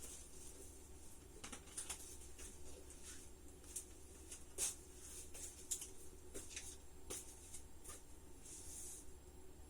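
Faint indoor room tone with a steady low hum and scattered light clicks and ticks at irregular intervals, the sharpest about halfway through.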